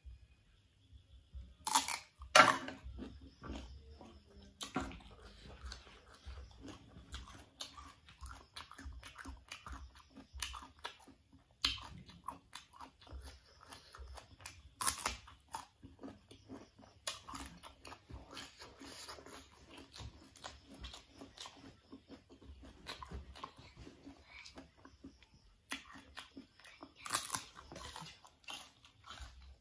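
Close-miked biting and chewing of raw unripe fruit, young banana and mango: a string of crisp crunches and wet chewing. Several louder bites stand out, the loudest a couple of seconds in.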